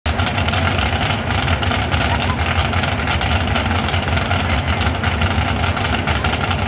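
Pulling truck's engine running loud and steady, a deep low rumble with a dense rasp over it and no let-up.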